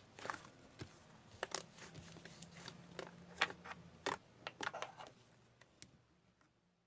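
Irregular sharp clicks and taps, a dozen or so, over a faint low hum, dying away about six seconds in.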